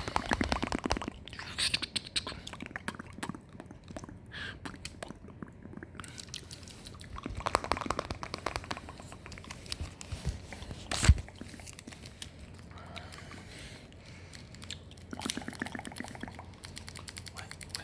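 Close-miked ASMR mouth sounds: a dense, irregular run of small wet clicks and smacks, with a few louder clusters and one sharp, loud click about eleven seconds in.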